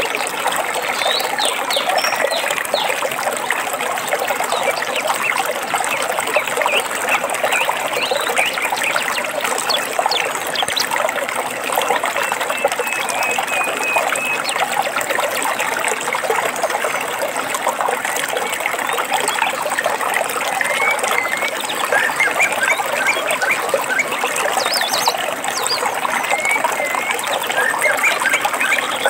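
Steady trickling and babbling of running water, with birds chirping in short calls over it throughout.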